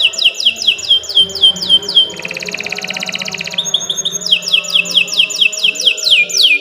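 Domestic canary singing: rows of quick downward-sweeping whistled notes, about six a second. Around the middle of the song they give way to a rapid, even trill on a lower pitch, then the sweeping notes return.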